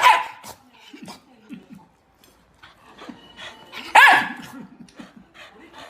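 A dog barking: two loud barks, one at the start and one about four seconds in, with fainter short sounds between them.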